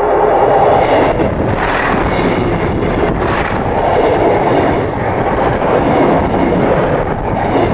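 A Northern diesel multiple unit passing directly over a microphone laid between the rails. Its wheels and underfloor engine make a loud, continuous rumble, with several sharp clacks as the wheelsets roll over.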